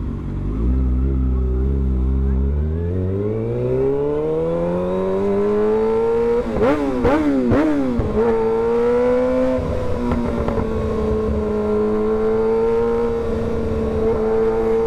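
Kawasaki ZX-6R 636 inline-four engine heard from the rider's seat: it rises steadily in pitch for about five seconds, dips and rises a few times in quick succession near the middle, then holds a steady cruising pitch.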